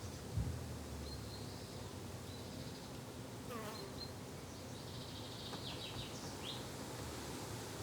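Insects buzzing steadily in a garden, with a few short high bird chirps scattered through and a brief thump about half a second in.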